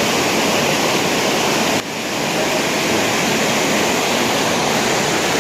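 Steady rushing of a waterfall, with a brief dip about two seconds in.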